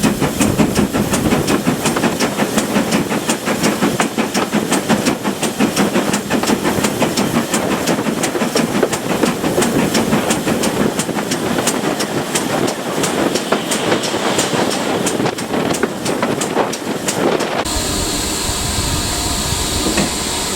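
Manor-class steam locomotive working hard, its exhaust beating in a rapid, even rhythm with steam hiss. Near the end the beats stop abruptly, giving way to a steadier rumble and hiss.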